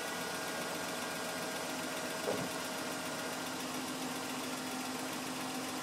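BMW M52 straight-six engine idling steadily, with one short knock about two seconds in. This is the noise the owner calls strange.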